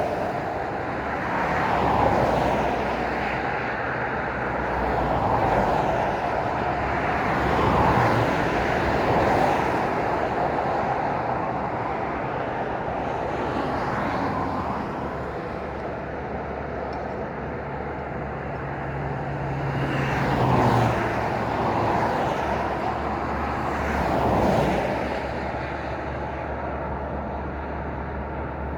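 Road traffic at night: vehicles pass one after another, each one's tyre and engine noise swelling and fading over a continuous hum of road noise. Several pass in quick succession at first, then the road is steadier for a while before two more pass near the end.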